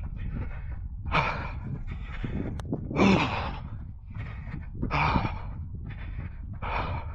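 A runner's heavy breathing mid-run, hard exhales coming about once a second over a steady low rumble.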